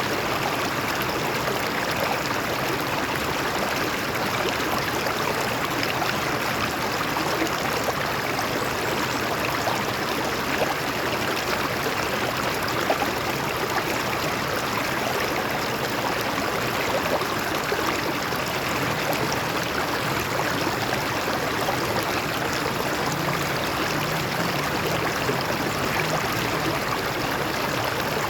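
Stream water flowing over rocks: a steady rushing and babbling with small splashes.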